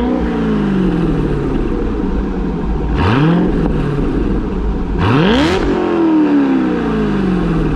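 2010 Corvette ZR1's supercharged 6.2-litre LS9 V8 through a Corsa Xtreme axle-back exhaust, revved from idle. It falls back from a rev at the start, then is blipped twice more, about three and five seconds in. Each rev rises quickly and sinks slowly back to idle, and the last goes highest.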